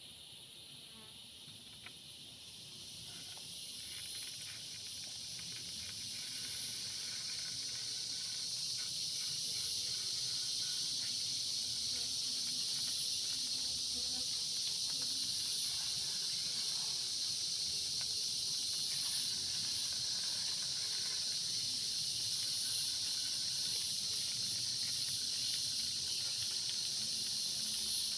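Forest insect chorus: a dense, high, steady buzzing that swells over the first several seconds and then holds.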